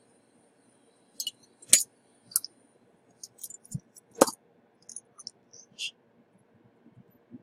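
Small metal tools clicking and tapping on a workbench, about a dozen sharp irregular clicks over several seconds, two of them louder.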